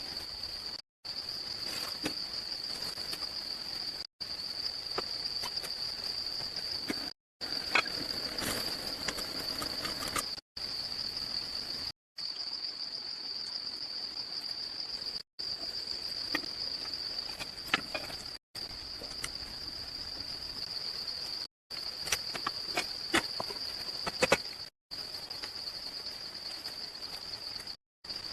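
Steady high-pitched drone of insects, one unchanging tone, broken by brief silences every few seconds, with occasional light knocks and clicks.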